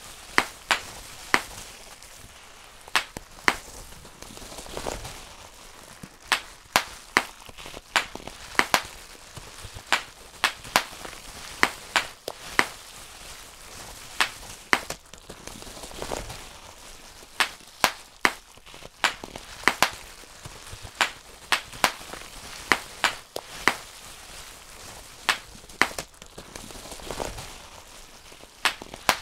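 Bubble wrap being popped by hand: sharp, irregular pops a few times a second, sometimes in quick runs, with the crinkle of the plastic sheet between them.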